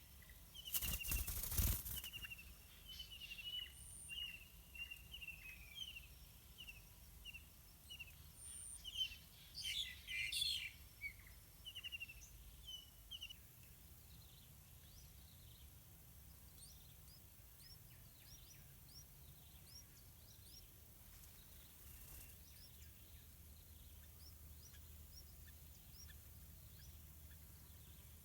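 Yellow-vented bulbuls calling in quick series of short, high, downward chirps, with a loud rustling burst about a second in and another near the middle; the calls fade to faint, sparse chirps in the second half.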